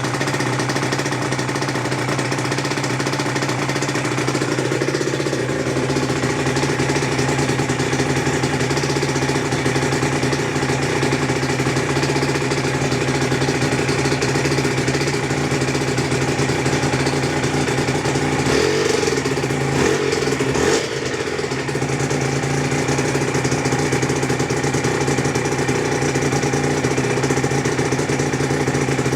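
Freshly rebuilt Aprilia RS125 Rotax 122 two-stroke single running steadily on its first start, with a whine the owner puts down to new, very tightly meshed balance shaft gears wearing in. Its note briefly changes about twenty seconds in.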